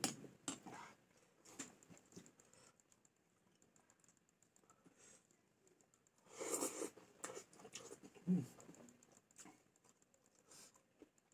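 Quiet eating sounds: scattered light clicks and taps of a spoon on a plate. There is a louder, fuller noise a little after six seconds and a short one about two seconds later.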